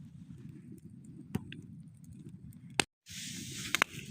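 Wood campfire burning: a low steady rumble with sharp crackles of burning wood now and then, and a hiss joining in about three seconds in.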